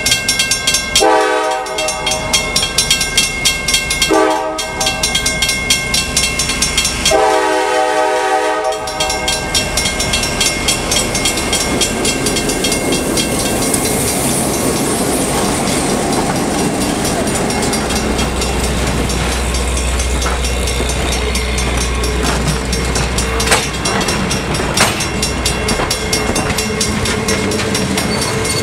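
Diesel locomotive's air horn sounding for the grade crossing: a long blast, a short one, then a long one. The locomotive and its passenger coaches then roll across the crossing, wheels clicking over the rail joints, while the crossing signal bell rings throughout.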